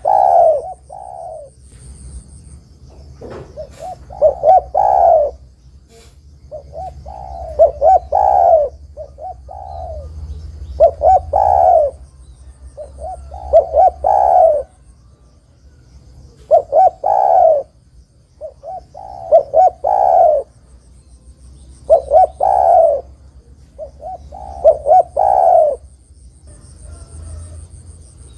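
Spotted dove (derkuku) cooing over and over. Each phrase is a few short notes ending in a longer arched coo, and a phrase comes about every three seconds.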